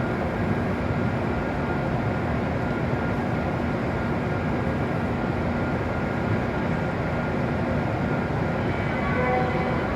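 W7 series Shinkansen train at the platform, a steady, even hum of running equipment with a few fixed tones in it. Near the end, new higher tones come in.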